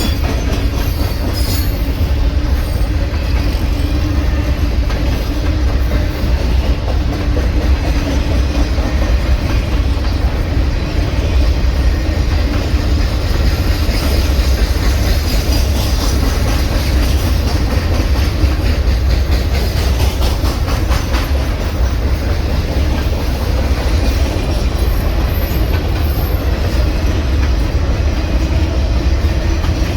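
A long freight train rolling past, its wheels on the rails making a loud, steady rumble with clickety-clack. A faint high wheel squeal comes in near the end.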